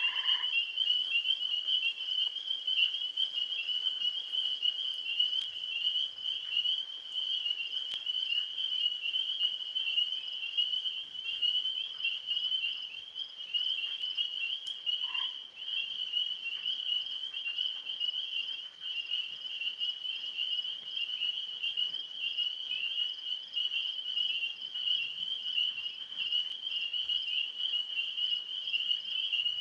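Tree frogs calling in a dense, unbroken high-pitched chorus, a rapid pulsing that holds steady throughout.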